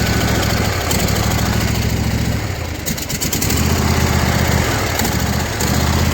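Toro TimeCutter riding mower engine running steadily as it warms up after a cold start. Its sound dips and thins briefly about two and a half seconds in, with a few light clicks, then steadies again.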